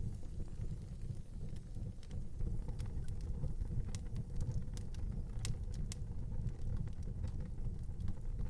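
Wood fire burning in an outdoor fireplace: a steady low rumble of the flames with scattered crackles and pops, a few sharper pops about five and a half seconds in.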